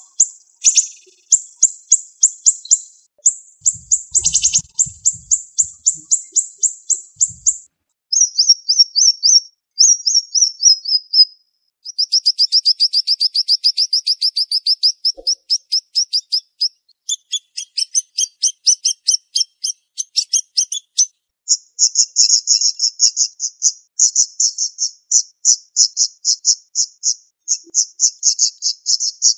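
Siri-siri songbird singing rapid runs of sharp, high-pitched repeated notes, many per second, in fast, tightly packed bursts. Short breaks fall between runs, and a few of the phrases fall in pitch.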